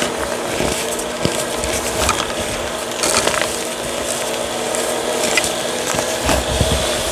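Reformed gritty chalk being crushed and crumbled, a continuous gritty crackling with many small sharp snaps, over a steady background hum.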